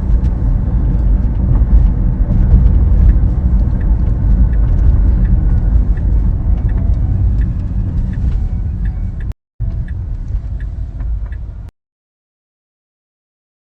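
Low rumbling road and wind noise inside a moving Tesla under electric drive, with faint regular ticking. The sound cuts out completely for a moment about nine seconds in, and again for the last two seconds: a dropout in the live stream's audio.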